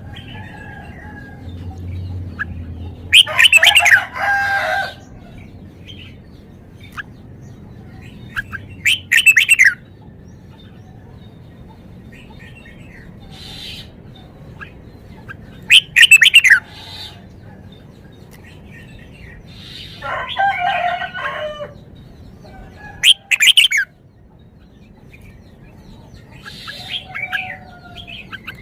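Red-whiskered bulbul singing loud, short whistled song phrases, about six in all, each a second or two long, separated by pauses of several seconds.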